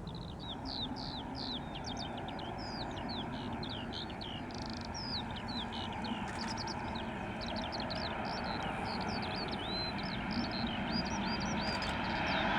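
Birds singing: a dense run of short chirps and whistles in quick succession over a steady background rumble, which grows louder near the end.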